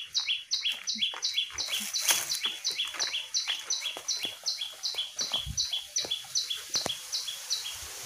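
A prenjak (prinia) calling in a rapid run of evenly spaced two-part chirps, about three a second, that stops near the end. Faint knocks and rustles from handling are among them.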